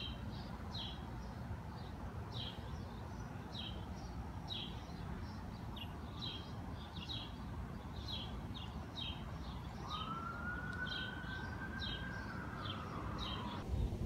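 A bird chirping short, high notes about twice a second over a steady low rumble. About ten seconds in, a siren wails once, rising, holding and then falling away over some four seconds.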